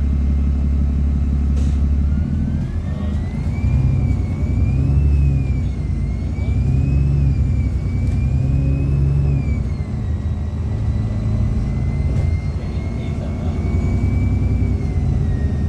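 Bus engine pulling away and accelerating, with the engine's speed picked up as a thin electrical whine through the onboard announcement speaker. The whine rises from about two seconds in, swells and dips several times as the engine goes up and down in revs, then holds steady and drops a step near the end.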